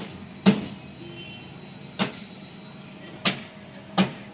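Front fan cover of an inverter AC outdoor unit being fitted back on: five sharp snaps and knocks at uneven spacing as it is pressed into its locks.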